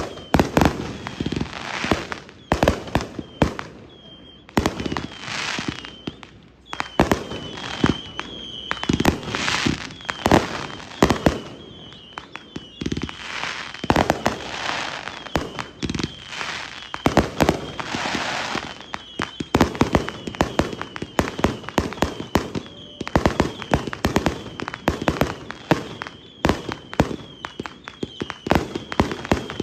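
Consumer firework cakes firing in rapid, continuous volleys: dense bangs one after another, with stretches of crackling.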